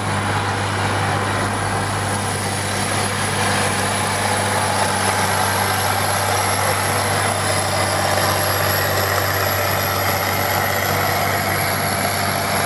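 Massey Ferguson 1135 pulling tractor's diesel engine running steadily at low revs, waiting to make its pull, with a steady high-pitched whine above the engine.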